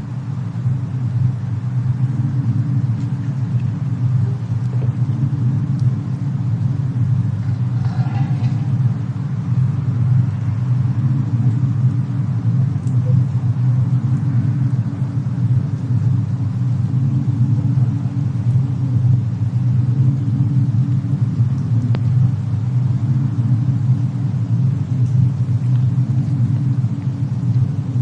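Steady low rumble of a snowstorm-and-fireplace ambience mix, with a few faint crackles and a brief faint pitched sound about eight seconds in.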